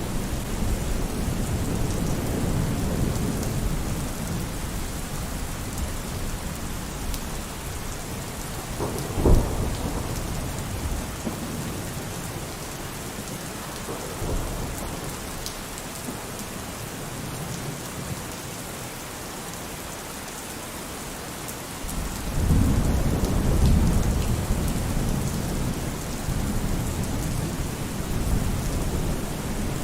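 Steady heavy rain falling, with rolling thunder: a rumble fades away over the first few seconds, a short sharp crack of thunder comes about nine seconds in, and a new long rumble swells up about twenty-two seconds in.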